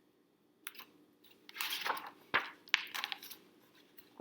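Pages of a picture book being turned by hand: a few papery rustles and sharp clicks over about three seconds.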